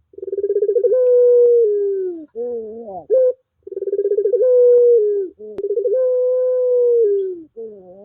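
Puter pelung dove cooing: long drawn-out coos held near one low pitch, each sagging at its end, alternating with shorter notes that glide up. Three long coos and two short rising phrases repeat in a steady cycle.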